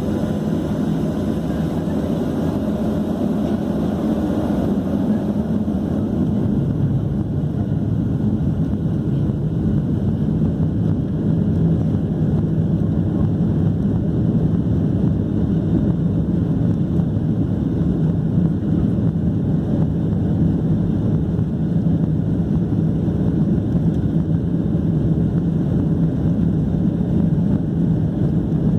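Boeing 737 jet engines and airflow heard from inside the passenger cabin: a steady, loud rushing noise with a low hum that grows a little louder about ten seconds in.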